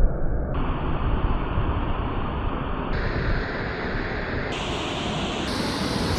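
Steady, deep rushing noise of water pouring over Chitrakote Falls.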